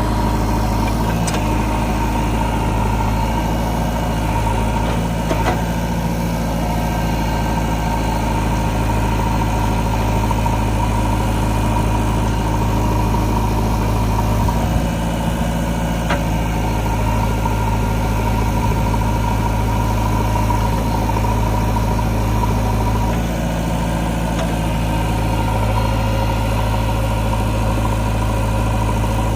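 JCB 3DX backhoe loader's diesel engine running steadily at a constant speed, with a few faint clicks and knocks.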